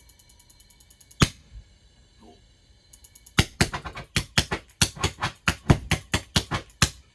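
Electric barbecue-lighter spark igniter on a propane combustion chamber snapping: a run of loud, sharp clicks about four to five a second from about three seconds in, after a single sharp knock just over a second in. Faint fast ticking comes before the knock.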